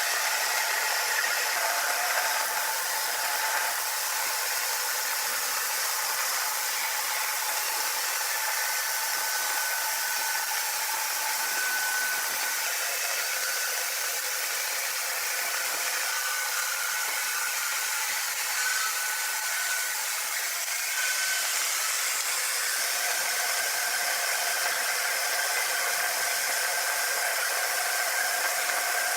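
Sawmill machinery running with a steady whir, and a thin high whine that comes and goes.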